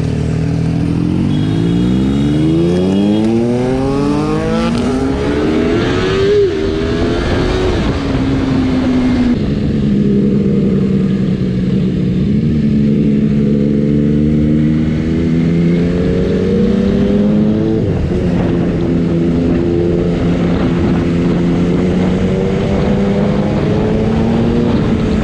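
Sport motorcycle engine accelerating hard, its pitch climbing through the gears and dropping at each upshift in the first ten seconds. It then settles into a steadier run at speed, rising and easing gently, with wind rushing past.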